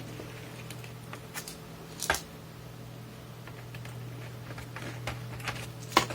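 Scattered light clicks and taps of a cassette multitrack's casing and parts being handled during disassembly, with two sharper knocks, about two seconds in and near the end, over a steady low hum.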